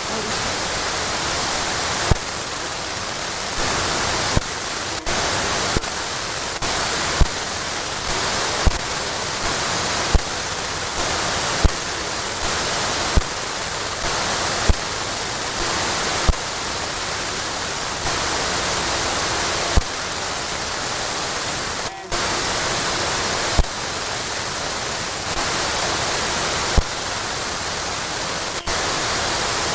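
Television tuner being switched channel to channel, with a click about every one and a half seconds, each landing on steady hissing static with no clear station.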